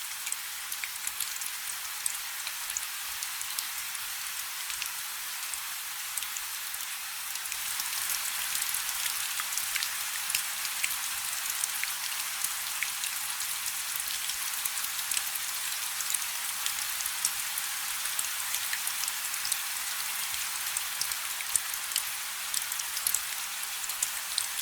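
Rain falling on a river: a steady hiss with many distinct drop splashes, growing a little heavier about seven seconds in.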